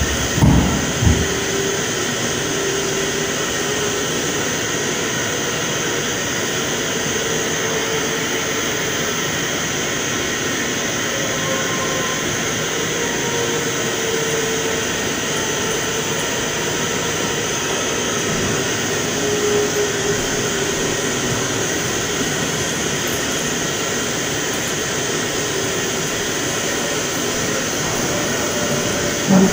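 A steady, noisy rumbling drone with faint sustained tones over it, with two short knocks just after the start.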